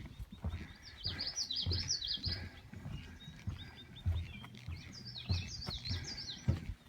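A songbird singing two short phrases of quick, repeated high notes, one about a second in and one about five seconds in. Underneath, footsteps thud at a steady walking pace.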